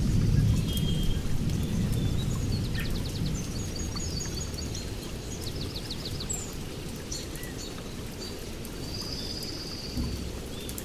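A rumble of thunder dying away over steady rain, fading through the first half. Small birds chirp and trill throughout.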